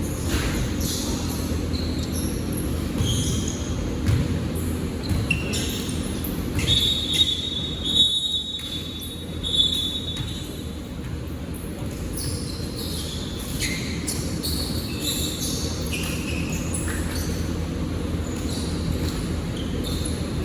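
Basketball game play in a gym: the ball bouncing and many short, high squeaks over a steady rumble of hall noise, with a held high tone around the middle.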